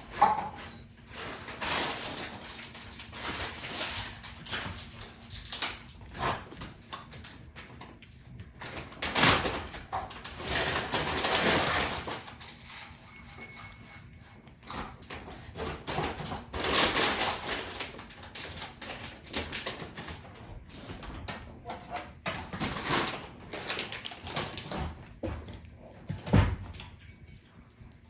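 House cats at feeding time, making irregular rustling and knocking noises with scattered short clicks, and a sharp thud near the end.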